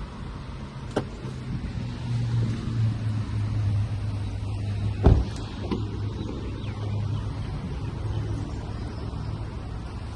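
2016 Hyundai Tucson 2.0's engine running with a steady low hum, with a click about a second in and a loud thump about five seconds in.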